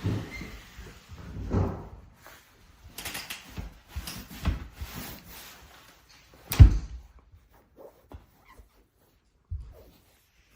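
Irregular knocks and thumps, like doors or cupboards being handled, with one sharp, loudest thump about six and a half seconds in.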